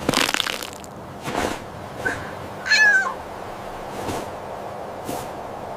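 Cat meowing: a few short meows, the loudest about three seconds in, with short noisy bursts between them over a steady background hiss.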